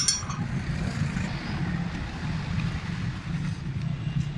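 Steady low mechanical rumble, with a sharp click right at the start.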